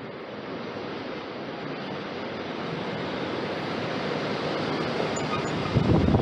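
A road vehicle approaching, its tyre and engine noise rising steadily and peaking as it passes close by near the end, with a few low thumps as it goes past.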